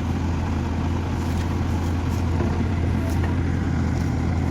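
Large diesel engine running at a steady speed, an even low drone with no revving.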